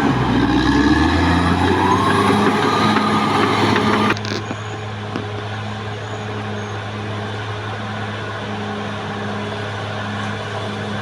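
Caterpillar D6R XL bulldozer's diesel engine working hard, its pitch dipping and rising again, then about four seconds in the sound drops suddenly to a steadier, quieter running.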